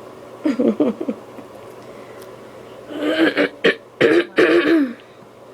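A person coughing and clearing their throat: a short burst about half a second in, then a longer, louder run of coughs and throat clearing about three seconds in. The coughing is the sign of an allergy flare-up.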